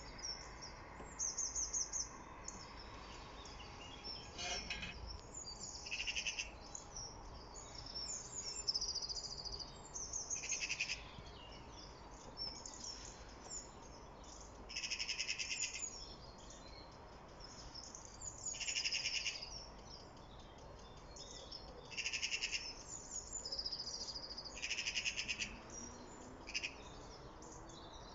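Songbirds singing: short, high, trilled phrases about a second long, repeated every few seconds over faint steady background noise.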